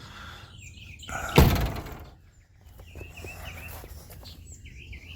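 Small birds chirping in repeated short warbling phrases, with one sharp loud thunk about a second and a half in.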